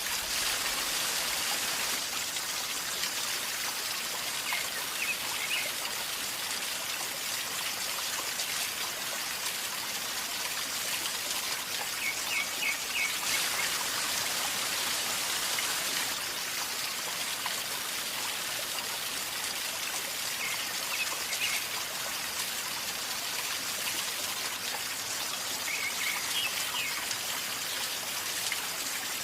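River water flowing steadily with a calm gurgling, trickling rush. A few short runs of brief high notes break through it four times.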